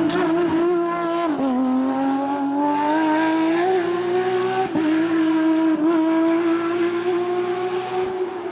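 Porsche competition car's engine pulling hard at high revs, with quick gear changes about one and a half seconds in and again near five seconds; the pitch climbs steadily between them.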